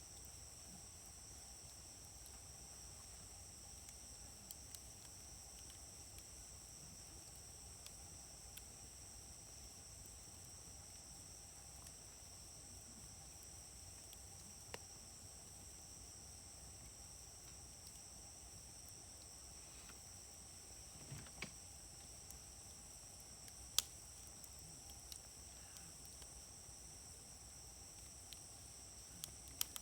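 Wood fire in a fire grill burning quietly, giving sparse sharp crackles and pops, the loudest about two-thirds of the way through. Behind it, a steady high insect drone, like crickets, runs throughout.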